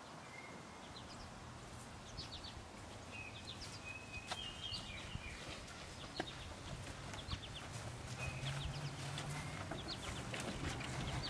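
Birds chirping in short, quick repeated calls with a few sharp clicks; a low steady hum comes in during the second half.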